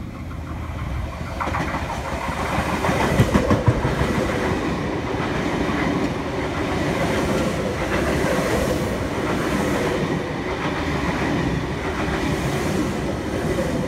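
Double-deck V-set electric intercity train passing without stopping, its wheels running steadily on the rails with sharp clicks over the rail joints, loudest about three to four seconds in as the cars go by.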